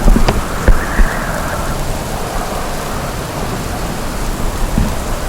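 Heavy rain and wind of a thunderstorm, with a few loud sharp cracks in the first second.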